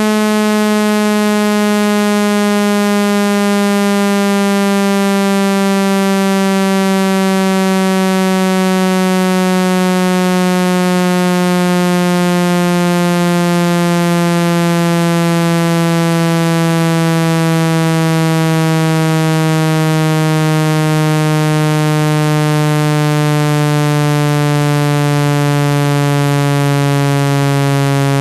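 Synthesized speaker-cleaning tone: a low, buzzy electronic tone gliding slowly and steadily down in pitch at constant loudness, played to vibrate dust out of a phone speaker.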